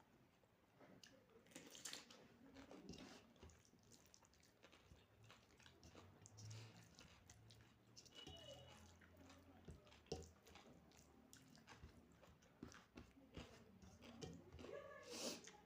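Soft, close-up chewing and mouth sounds of a person eating soya-chunk curry with rice and salad: irregular wet clicks with occasional small crunches.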